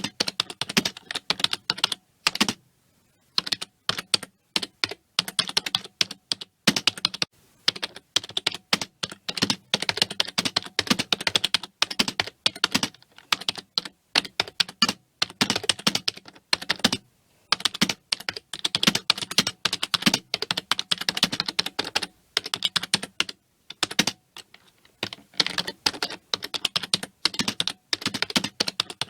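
Computer keyboard being typed on steadily: quick runs of key clicks broken by brief pauses, one of them about two and a half seconds in.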